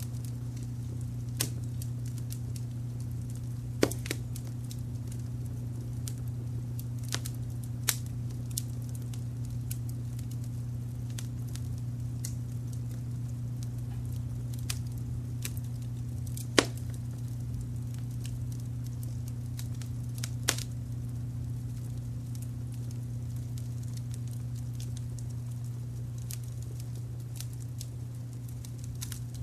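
Wood fire crackling, with scattered sharp pops over a steady low rumble of brown noise. The loudest pop comes about two-thirds of the way through.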